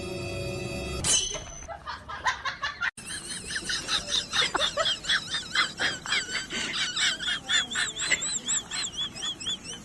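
Rapid, high-pitched chirping calls from an animal, several a second and wavering in pitch. They follow a short stretch of music that cuts off about a second in.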